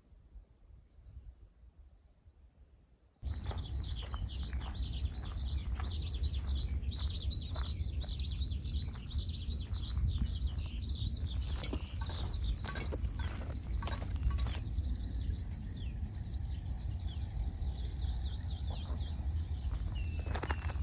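Birds chirping and singing in a dense run of short, high calls over a steady low rumble, with scattered clicks; the sound starts abruptly about three seconds in after a very quiet start.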